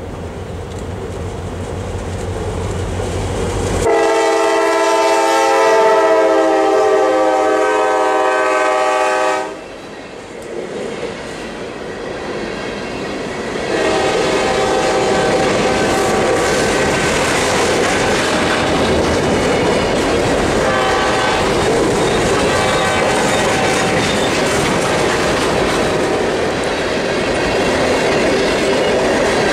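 Approaching CSX freight train: the diesel locomotive's rumble builds, then its air horn sounds one long loud chord for about five seconds and cuts off. Loaded hopper cars then roll past close by with clickety-clack, steady rolling noise and a thin steady wheel squeal.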